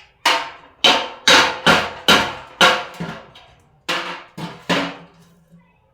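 About ten sharp blows on metal at an uneven pace, each ringing briefly, with a short pause midway. The sound fits hammering or driving a washing-machine drum bearing in or out.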